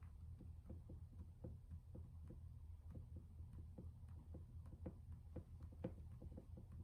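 Faint, irregular small clicks and taps, several a second, over a steady low hum.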